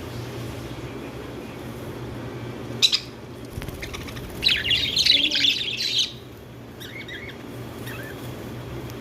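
Budgerigar squawking: one short harsh call, then a loud burst of rapid scratchy squawks lasting about a second and a half, followed by a few soft chirps, over a steady low hum.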